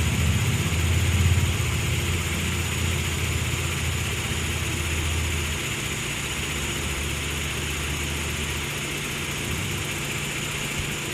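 Car engine idling with a steady low hum that weakens partway through.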